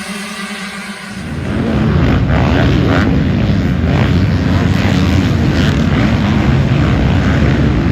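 Motocross bike engines, a pack of dirt bikes running hard. A steadier engine note for the first second gives way to a much louder, dense engine noise that rises sharply about a second in and then holds steady.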